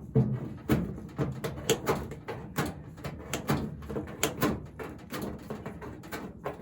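Right-angle tin snips cutting thick sheet metal. Each squeeze of the handles makes a sharp crunching snip, about twice a second.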